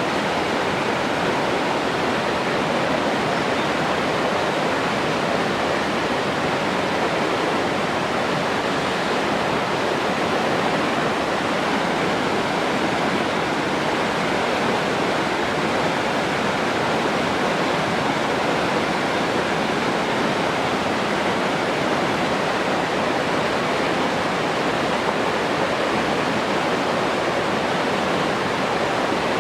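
Steady rushing water, an even, unbroken roar of noise with no distinct splashes or changes.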